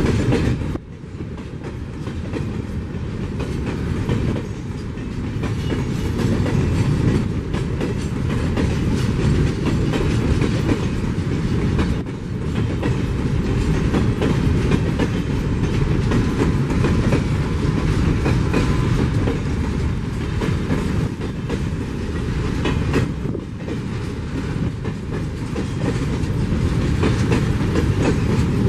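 Freight train wagons rolling past at speed: a steady, loud rumble with wheels clicking over the rail joints.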